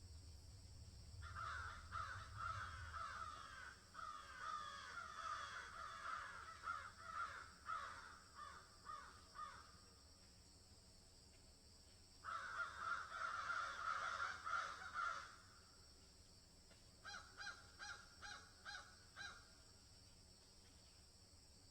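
Birds calling in bursts: two long stretches of many overlapping calls, then a quick run of about eight short repeated calls near the end.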